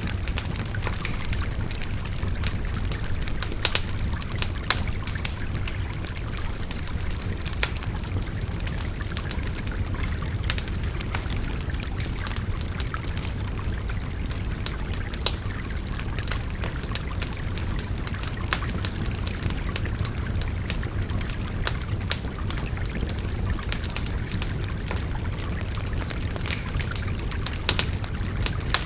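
Wood fire crackling with frequent sharp pops over the steady rush of a babbling river.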